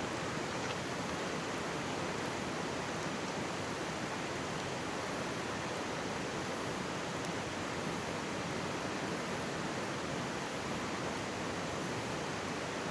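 Mountain stream babbling and rushing steadily close by, with a faint crackle or two from a wood campfire.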